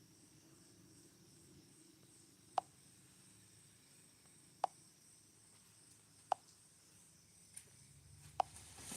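Burning wood popping in a bonfire: four sharp pops about two seconds apart, with a smaller one near the end, over a faint steady chirring of insects.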